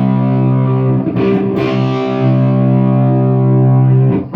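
Takamine GX-100 electric guitar played with distortion through a small tube amp: a chord rings out, is struck again about a second in and held, then is cut off near the end.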